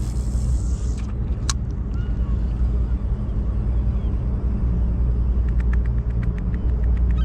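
A steady, low engine rumble, with a sharp click about a second and a half in and a quick run of faint clicks near the end.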